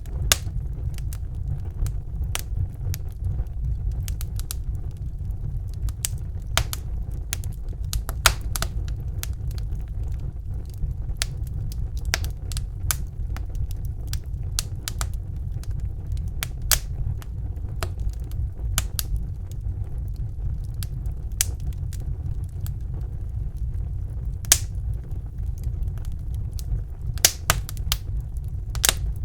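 Wood fire burning in a fireplace: a steady low rumble of the flames with irregular sharp crackles and pops, a few louder snaps near the middle and end.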